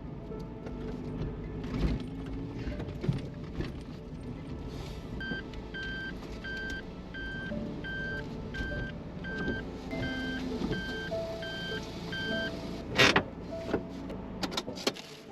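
Suzuki Every kei van's engine running at low speed while parking. In the middle come about a dozen short electronic beeps, under two a second, typical of a reverse warning beeper. A sharp knock and a few clicks follow near the end, and then the engine stops.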